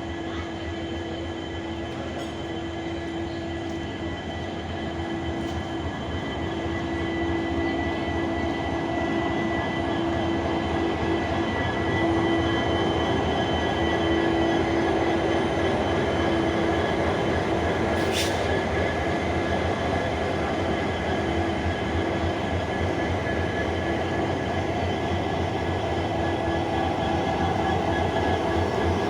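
Indian Railways WDP4 diesel-electric locomotive's EMD two-stroke V16 engine running with a low, rapid throb and a steady hum, growing louder over a few seconds near the start and then holding steady.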